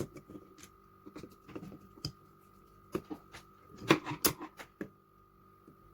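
Small clicks and light knocks of metal carburettor parts and tools being handled during reassembly, with a louder cluster of knocks about four seconds in.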